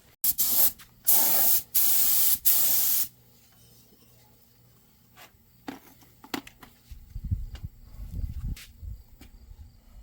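Paint spray gun hissing in four short bursts during the first three seconds as coating is sprayed. It is followed by faint knocks and a low rumble.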